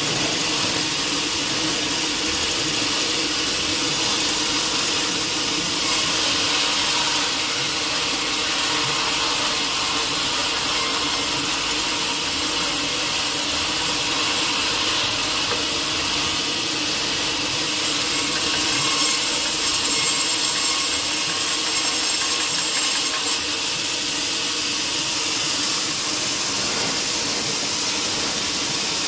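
Sawmill saw running and cutting through teak wood: a steady, dense cutting noise with a continuous machine hum underneath.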